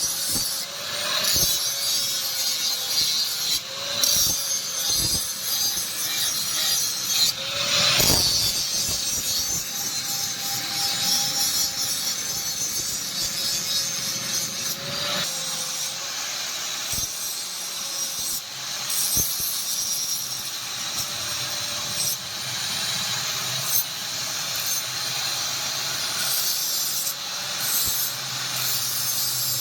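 Electric grinder running continuously against the steel of a spear blade made from a truck leaf spring. Its motor tone dips slightly every few seconds as the tool is pressed into the work, under a steady hiss of abrasion with occasional clicks.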